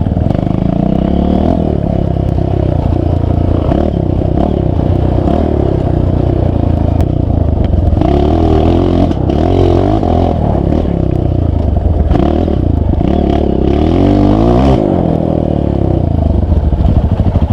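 Off-road vehicle engine running and revving up and down over and over, with clattering and scraping from the vehicle working over rough, wet trail ground.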